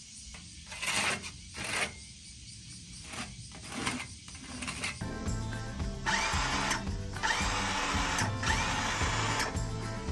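A power tool runs in short bursts, then in three longer runs of about a second each in the second half. Background music comes in about halfway.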